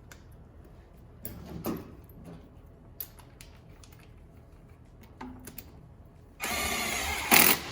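Faint clicks and handling of metal parts, then, a little over six seconds in, a loud buzzing from a small motorised hand tool that runs about a second and then gives short loud bursts.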